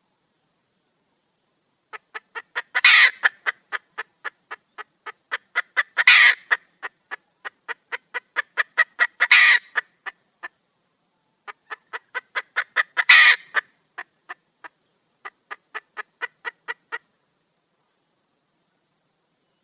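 Junglefowl hen calling for a mate: runs of short, quick clucks, about three or four a second, broken every few seconds by a louder, drawn-out call. It starts about two seconds in, pauses briefly midway, and stops a few seconds before the end.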